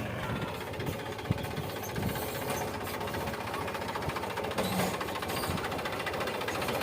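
Tractor's diesel engine running steadily with a rapid, even knocking beat.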